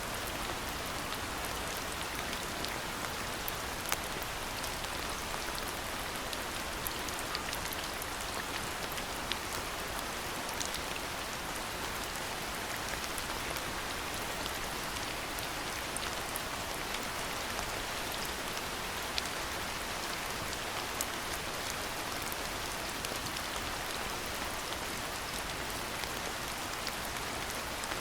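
Steady rainfall, an even hiss with scattered sharper taps of individual raindrops.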